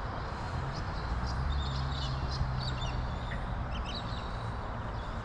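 Birds calling with many short, high chirps, over a steady low hum that fades after about four seconds.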